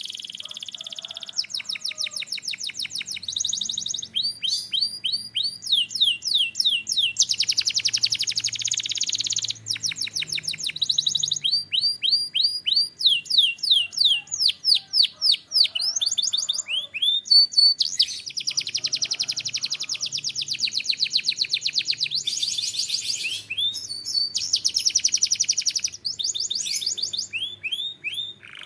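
Domestic canary singing a long song of rapid trills: each phrase repeats one quick high note many times, then switches to a new phrase every second or two, with brief pauses between some of them.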